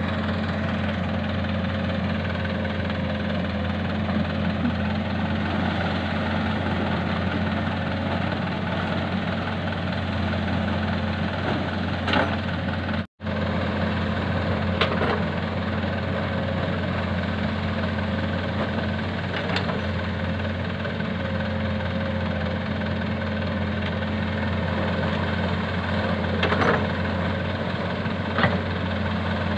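Komatsu PC200-6 excavator's diesel engine running steadily, with a few short knocks scattered through, typical of the bucket and machinery while loading sand.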